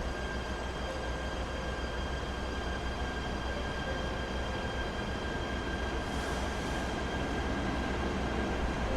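Steady interior hum of a Japanese train carriage standing before departure: a low rumble with a constant high-pitched electrical whine from its onboard equipment, and a short hiss about six seconds in.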